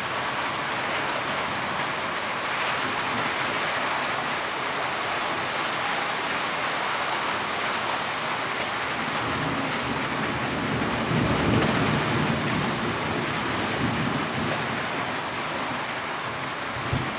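Heavy rain falling steadily. A low rumble swells and fades about two-thirds of the way through.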